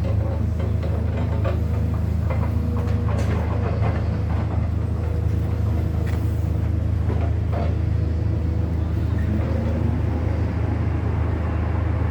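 A large engine running steadily with a low drone, with scattered knocks and clatters over it for most of the first eight seconds.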